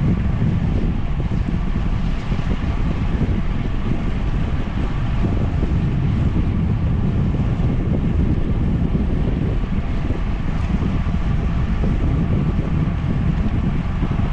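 Wind rushing over the microphone of a camera riding along on a moving bicycle, a steady low rumble that holds level throughout.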